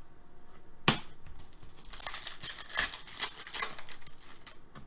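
Hockey trading cards being handled and sorted: a sharp click about a second in, then a quick run of light clicks and swishes as cards slide against each other.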